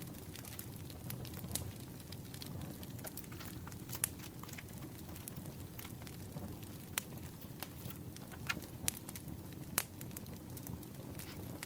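Crackling campfire with a steady low rumble and scattered sharp pops, a few louder pops in the second half.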